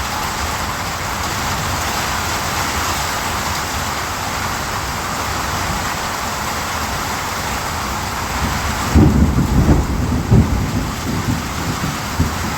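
Steady heavy rain, with a clap of thunder about nine seconds in that rumbles for a couple of seconds and then eases back into the rain.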